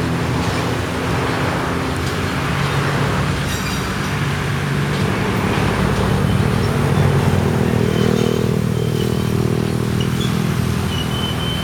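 Diesel engine of an ALCO RSD-16 locomotive running with a steady low drone, its pitch shifting slightly about eight seconds in.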